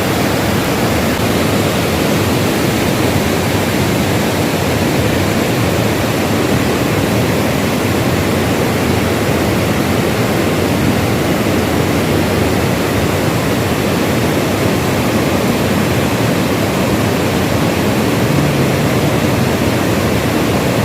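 Steady, loud rush of flowing water, an even hiss with no breaks.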